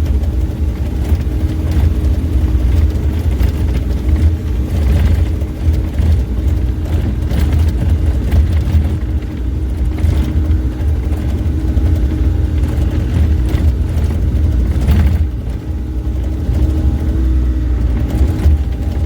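Bobcat E35 mini excavator's diesel engine running steadily under load, with a low rumble and a steady hum. A few clanks and knocks sound as it moves material.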